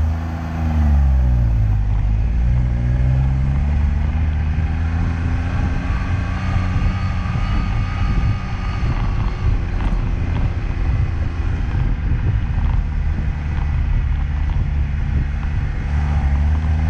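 Liege SS sports car's engine running under load. Its pitch dips and climbs again in the first couple of seconds, as with a gear change, then it holds a steady, loud drone with rough road noise.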